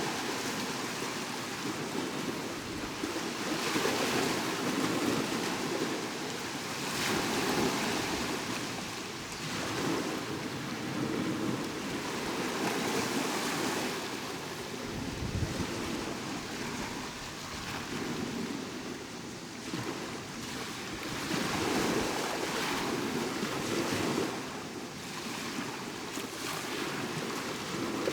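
Sea waves breaking and washing up the shore, the rush of surf swelling and easing every few seconds.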